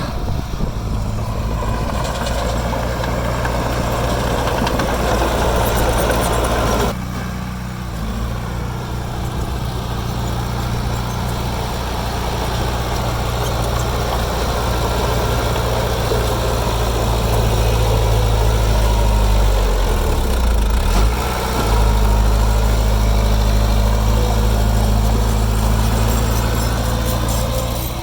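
Heavy diesel engine of earthmoving machinery running steadily. The sound changes abruptly about seven seconds in, and the pitch dips briefly around twenty seconds.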